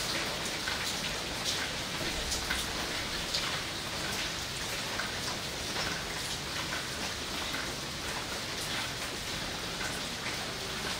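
Steady rain falling on leafy foliage, a continuous hiss with a dense patter of individual drops striking the leaves.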